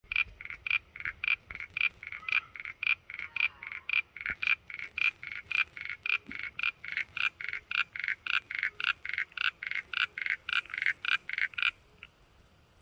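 A frog calling: an even run of short, pulsed croaks, about three a second, that stops shortly before the end.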